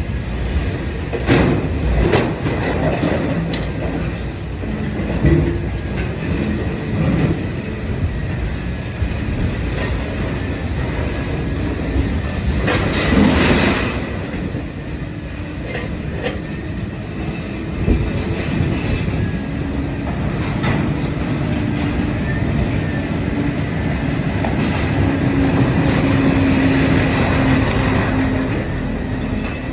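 Idromec T 650 CLS scrap metal shear baler working: a dense mechanical rumble of scrap metal being shifted and crushed, with scattered loud metal clanks, the biggest about thirteen seconds in. A steady low hum grows stronger in the last few seconds.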